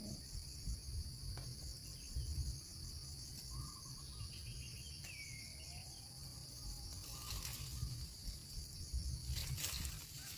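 Insects droning steadily at a high pitch, with a low rumble underneath and a few faint short chirps.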